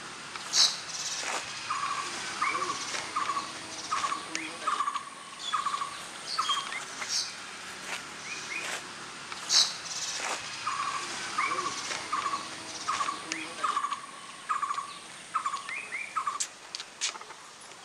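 Birds calling: two long runs of short repeated notes, about two a second, and a few sharp high chirps. The loudest chirps come about half a second in and near ten seconds.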